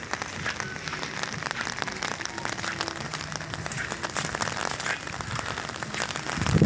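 Rain pattering: a steady, dense crackle of many small ticks.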